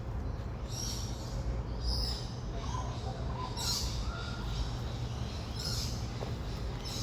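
Grey butcherbird giving a few soft, flute-like whistled notes a few seconds in, among high, hissy chirps that recur about every two seconds, over a steady low rumble.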